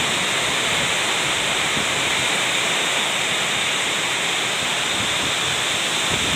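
Heavy downpour of rain: a steady, even rush of water noise with no break.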